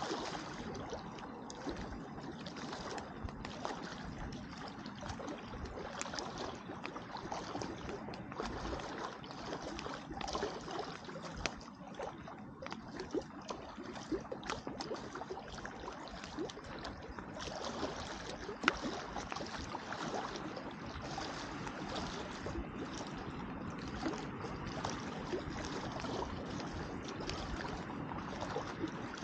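Wood campfire crackling with many small pops and one sharper snap about two-thirds of the way through, over a soft steady wash of lake water lapping at the shore.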